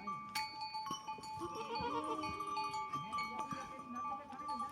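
Goats bleating, several overlapping calls, over a steady high ringing tone.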